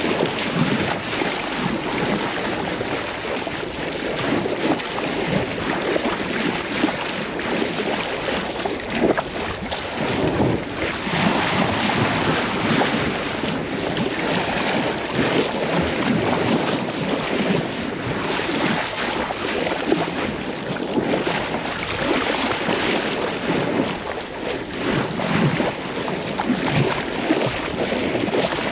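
Wind buffeting the microphone over the steady rush of sea water along a sailing yacht's hull under way in the open ocean.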